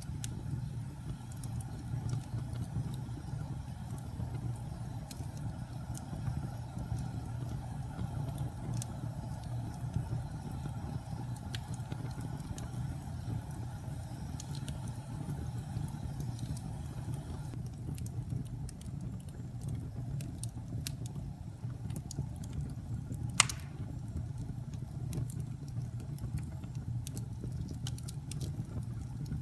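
Wood fire burning in a fireplace: a steady low rumble of flames with scattered small crackles and one sharp, loud pop about three-quarters of the way through.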